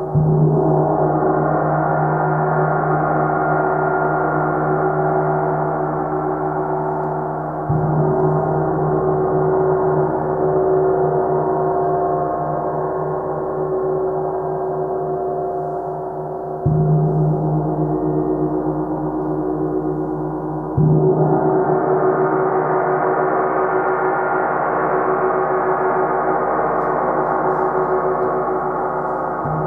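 30-inch Earth Element symphonic gong struck four times, several seconds apart, each strike blooming into a long, deep sustain rich in overtones that keeps ringing without dying away between strikes.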